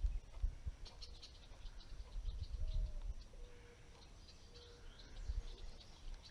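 Birds chirping faintly with many short, high chirps scattered throughout, over an uneven low rumble.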